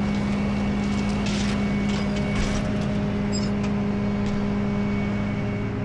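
Tow truck's engine idling with a steady low hum, with a couple of brief scuffs or rustles about a second and two and a half seconds in.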